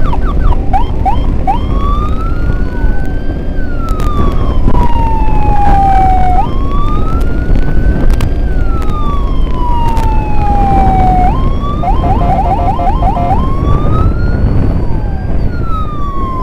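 Electronic emergency siren wailing in slow rising-and-falling sweeps about every two and a half seconds, switching briefly to a rapid yelp near the start and again about twelve seconds in, over a loud steady low rumble.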